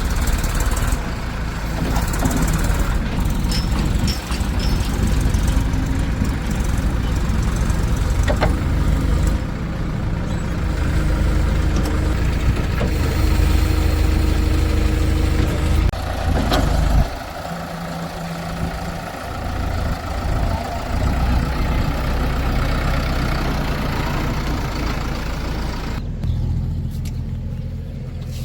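Heavy diesel machinery engine running steadily, with scattered clanks. The low engine drone drops away suddenly about 17 seconds in, then comes back a few seconds later.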